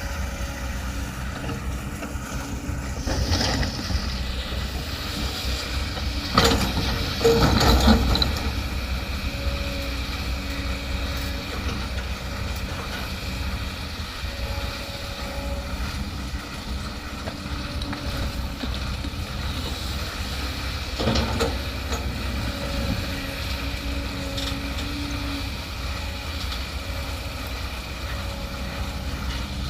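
Excavator diesel engine running steadily under load while digging and loading. Brief louder noisy spells break in about three seconds in, again for a couple of seconds around six to eight seconds in (the loudest part), and once more about two-thirds of the way through.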